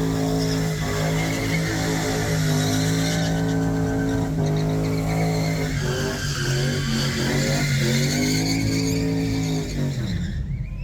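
Engine held at high revs during a burnout, with the spinning tyres screeching over it. The revs dip and climb back twice, then the engine drops off near the end.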